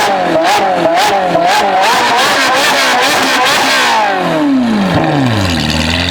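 Ferrari 458 Speciale's naturally aspirated V8 through straight-pipe exhausts, revved up and down in quick repeated blips with sharp popping and crackling from the exhaust. After about four seconds the revs fall away in one long drop and settle to a steady idle.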